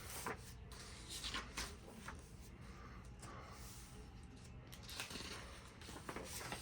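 Faint rustling and swishes of paper as the pages of a large hardcover book are turned and handled, a few short sweeps over a couple of seconds each.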